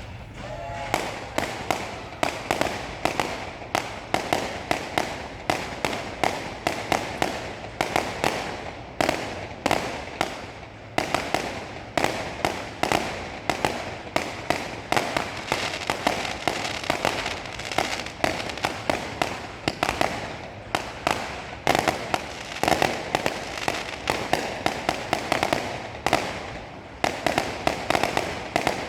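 Fireworks display: a dense, continuous run of sharp bangs and crackles, several a second.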